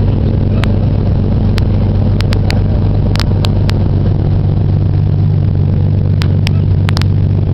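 Opel GT's engine running at a steady pitch, a constant low drone, with scattered sharp clicks over it.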